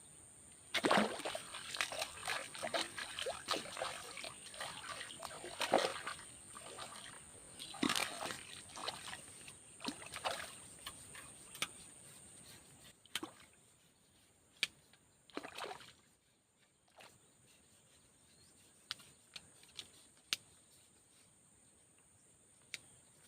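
A hooked fish splashing and thrashing at the water surface while it is pulled in, for about ten seconds; after that the splashing stops and only a few scattered taps and clicks remain.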